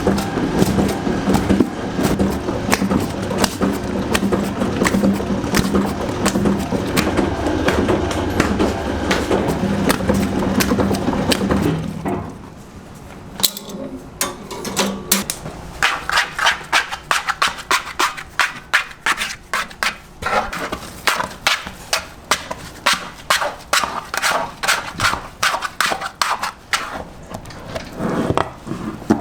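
A motor runs with a steady hum under dense clattering for about twelve seconds. It stops, and a little later come sharp, regular knocks, about two or three a second.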